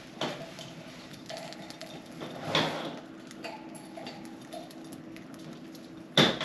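Budgies pecking and cracking millet seeds: a run of small sharp clicks and crunches, with two louder scuffling bursts about two and a half seconds in and near the end.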